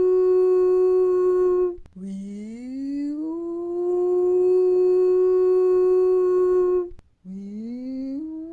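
Air-raid siren wailing: three times it winds up in pitch and holds a steady tone, cutting off abruptly between, warning of incoming enemy aircraft.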